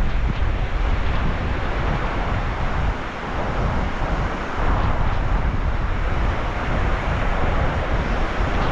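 Sea waves washing in steadily, with wind buffeting the microphone as a low rumble; it eases briefly about three seconds in.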